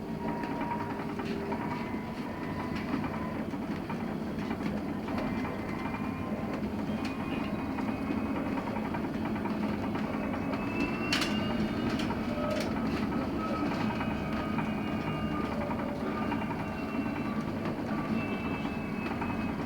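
LiAZ-6274 electric bus in motion, heard from inside the cabin: a steady rumble of road and tyre noise with faint thin whining tones drifting in pitch, and a few sharp rattling clicks around the middle.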